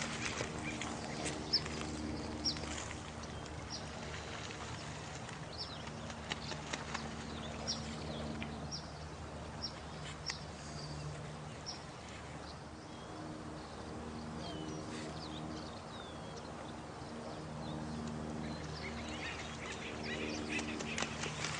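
Night-time nature ambience: running water under repeated low, drawn-out animal calls and many short, high, falling chirps.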